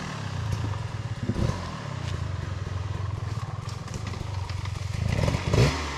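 Dirt bike engine idling steadily, with a short louder patch near the end.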